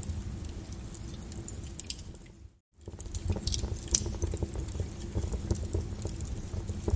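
Wood fire crackling and popping in a fireplace, with sharp irregular pops over a low rumble. The sound cuts out for a moment about two and a half seconds in, then the crackling resumes.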